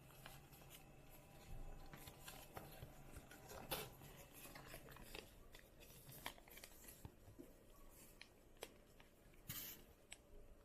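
Faint crinkling and creasing of a square of folding paper being folded in half by hand, with scattered small crackles; a sharper crackle about four seconds in and a longer rustle near the end.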